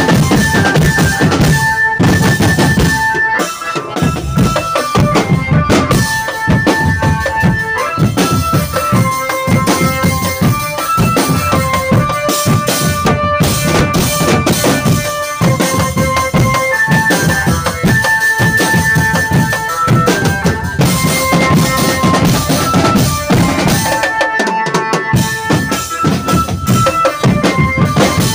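Drum band playing: bass and snare drums beating steadily under a melody of held notes. The drumming thins out briefly twice, just before four seconds in and again near the end.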